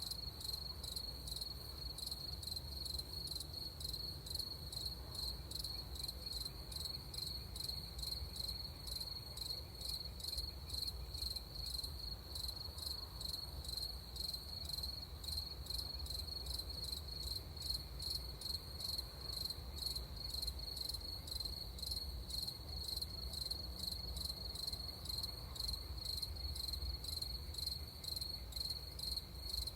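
Crickets chirping in a steady, high-pitched chorus of rapid, even pulses, over a faint low rumble.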